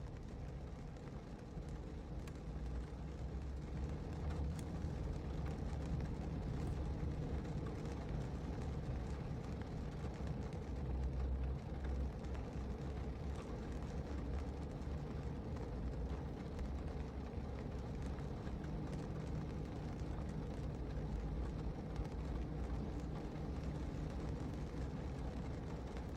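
Rain on a car heard from inside the cabin: a steady low rumble with a soft hiss of rain and faint scattered ticks of drops.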